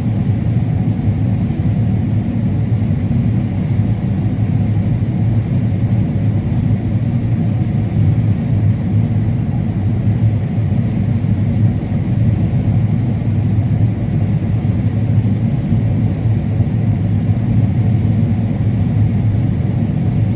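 Combine harvester running steadily while harvesting corn: a constant low drone of engine and machinery.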